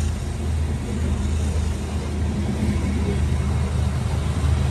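Freight train of covered hopper cars rolling past at close range: a steady low rumble of steel wheels on the rails.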